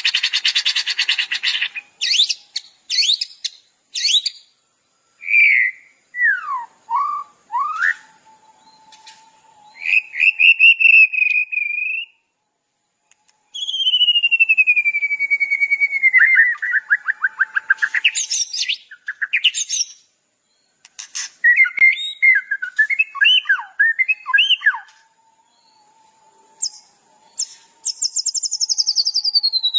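Recorded songbird song of the kind played as a masteran tutor track for cage birds: a string of varied phrases with short gaps. It opens with a fast buzzy trill, then sharp chirps, swooping whistles, a long trill falling in pitch, a rapid twittering jumble, and near the end another fast falling trill.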